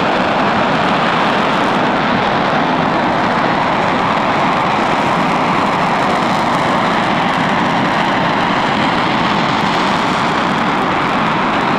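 RS-25 liquid-fuel rocket engine test-firing on a stand: a loud, steady rushing noise that holds level without a break.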